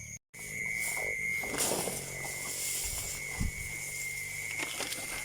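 Steady, thin, high-pitched insect drone, with a stretch of rustling or handling noise about one and a half seconds in and a few soft knocks.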